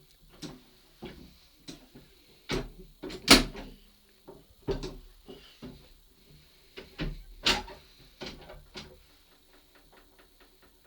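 Levers of a miniature signal box lever frame being worked: a series of sharp mechanical clunks and knocks, a few of them loud, followed near the end by a run of small quick clicks.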